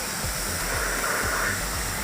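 Steady hiss of water spraying, as in washing down an air-conditioner unit, with music underneath.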